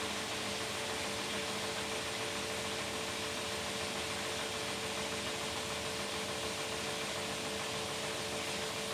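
Beko WTK104121W washing machine running on its delicates programme: a steady, unbroken motor hum with a constant whine and a rushing noise over it.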